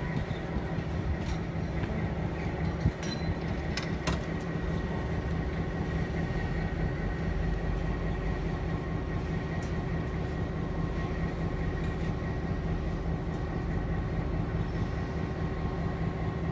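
Steady train noise: a continuous low rumble with a steady hum, with a few sharp clicks in the first few seconds.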